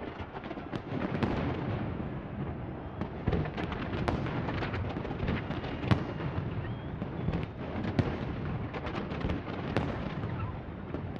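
Large fireworks display: a dense, continuous run of bangs and crackles. The sharpest loud bangs come about six and eight seconds in.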